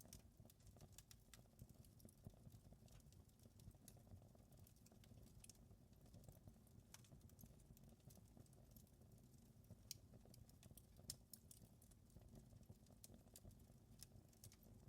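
Fireplace fire crackling: irregular small snaps and pops over a soft, steady low rumble, with a couple of louder pops past the middle.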